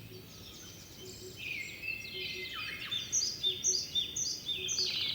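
Several birds chirping and trilling in a forest, sparse at first and growing busier about a second in, with short high notes overlapping. A faint low note repeats in pairs underneath.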